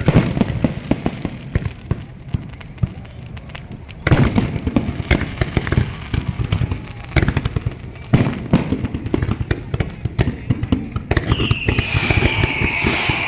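Fireworks display: dense crackling with bursts of bangs, about four seconds in and twice more around seven and eight seconds. Near the end a steady high-pitched tone that falls slightly comes in over the crackle.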